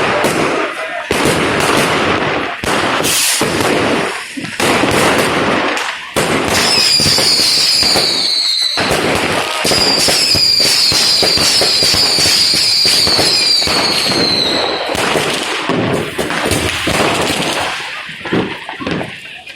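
Fireworks going off continuously: a dense mix of bangs and crackling. Through the middle stretch comes a run of short falling whistles, about two a second, broken by a brief gap.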